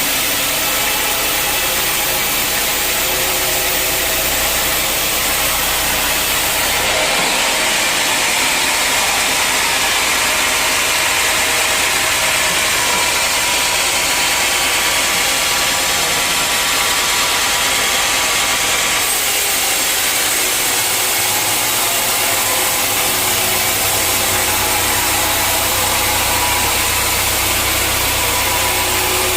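Sawmill machinery running steadily while dry old teak is sawn, the sound turning brighter and harsher for about twelve seconds in the middle and then settling into a steady low hum.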